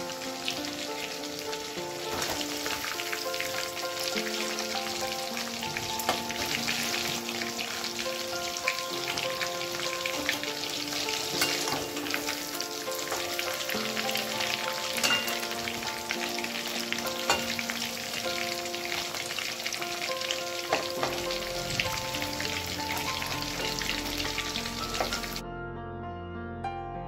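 Chicken pakoras deep-frying in hot oil on their second fry, a dense sizzling crackle, over soft background music. The frying cuts off abruptly near the end, leaving only the music.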